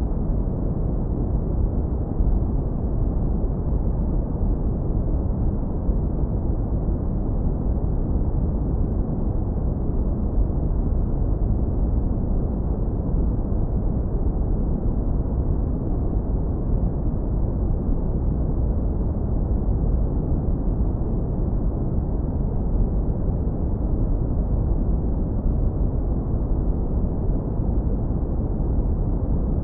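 Continuous synthetic brown noise, heavily lowpass-filtered so it is a steady, deep, smooth rumble with no hiss on top and no change in level.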